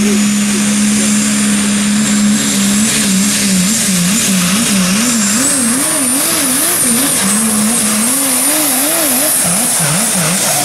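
Super stock diesel pulling truck at full throttle, its engine note held steady, then wavering up and down about one and a half times a second as the revs bounce during the pull, with a high turbo whistle rising above it.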